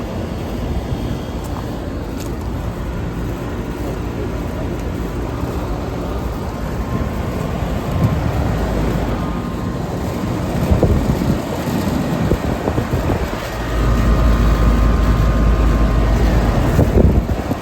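Residential air-conditioner condensing units running outdoors: a steady compressor and fan hum. Near the end a heavier low rumble comes in for about three seconds, like wind buffeting the microphone.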